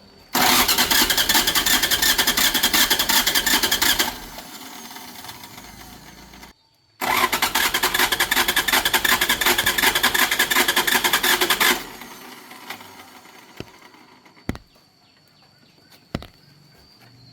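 An engine's electric starter cranking in two attempts, about four and five seconds long, with a short pause between. The engine does not catch, the sign of the no-start fault the vehicle was brought in for. A few faint clicks follow.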